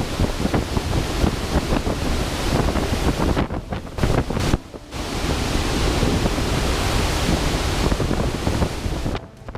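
Typhoon wind gusting hard over the microphone: a loud, rough rushing noise with heavy buffeting that drops out briefly twice a few seconds in and cuts off near the end.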